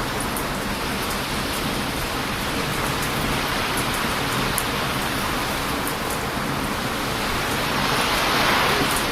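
Heavy surf breaking on a beach, a continuous loud rush of waves that swells near the end, with small crackling pops from a wood campfire scattered over it.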